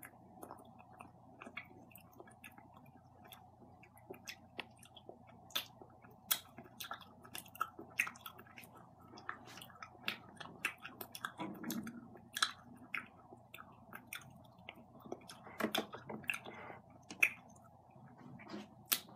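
A person chewing candy close to the microphone: irregular wet mouth clicks and smacks, with a few louder ones near the middle and toward the end.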